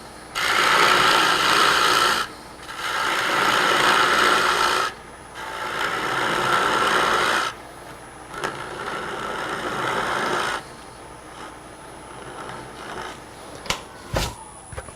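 A turning tool cutting a spinning hard maple knob on a wood lathe, wasting away part of the tenon. There are four scraping passes of about two seconds each with short breaks between them, then the lathe runs with lighter cutting, and two sharp knocks come near the end.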